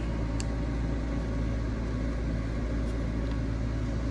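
Steady low electrical or mechanical hum of room background noise, with one faint tick about half a second in.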